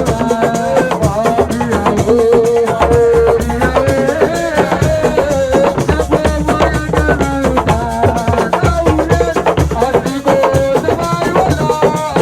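Senegalese assiko music: a lead voice sings a wavering melody over fast, dense hand drumming and a steady shaker rattle.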